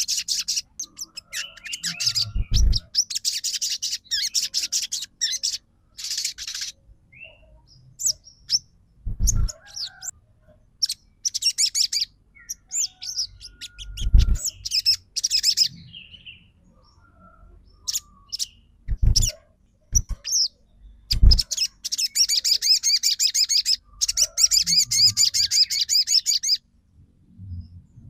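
Sogon songbird singing in bursts of rapid, high chattering trills separated by short pauses, with several dull low thumps in between.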